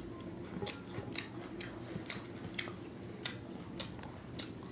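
Close-miked chewing of a crunchy mouthful, raw onion slice, with sharp crisp crunches about twice a second.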